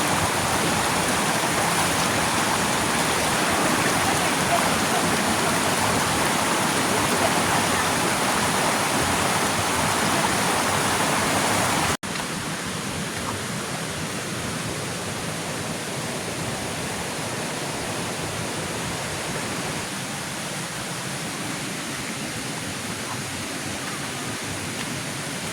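Waterfall rushing: a steady hiss of falling water. About twelve seconds in it breaks off for an instant and carries on somewhat quieter.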